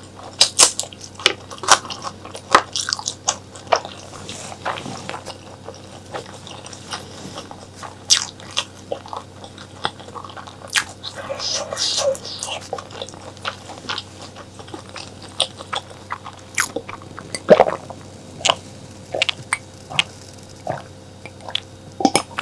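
Close-miked eating: a person biting and chewing mutton and honeycomb tripe curry, with irregular sharp mouth clicks and wet smacks all through. A faint steady hum runs underneath.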